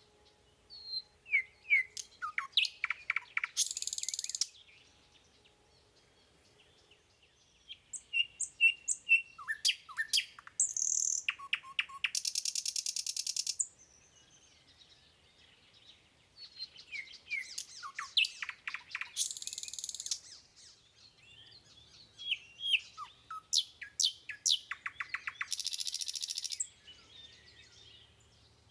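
A small songbird singing in four phrases of quick chirps and downward-sliding notes, each phrase ending in a short hissing buzz, with pauses of a few seconds between phrases.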